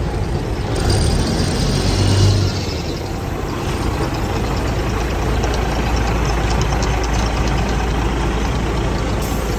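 A vehicle's engine runs with a steady low hum. It swells briefly about a second or two in.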